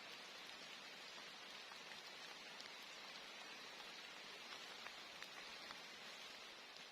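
Rain falling steadily as an even hiss, with scattered sharper ticks of single drops.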